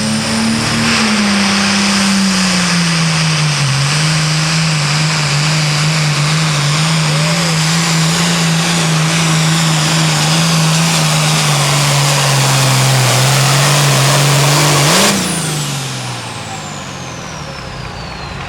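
Super Farm class pulling tractor's diesel engine running flat out under heavy load, its pitch sagging as the sled bears down. About 15 seconds in it blips up and the throttle is cut, the engine dropping off while a high turbocharger whine winds down.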